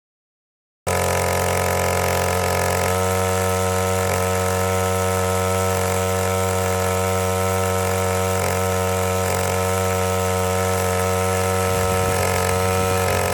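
Koshin SEV-25L engine pump's small engine running at a steady speed, cutting in abruptly about a second in.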